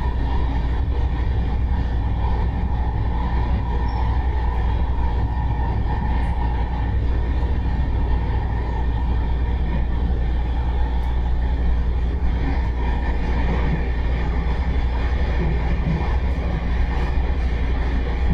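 MARTA heavy-rail train car running at speed, heard from inside the car: a steady low rumble with a faint steady whine above it.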